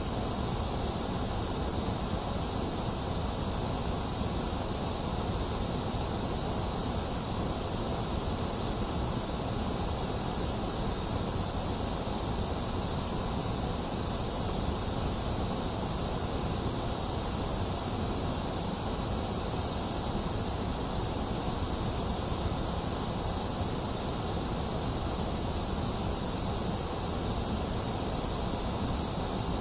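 Box fan running steadily together with steady rain: an even, unchanging noise, a low whoosh under a high hiss.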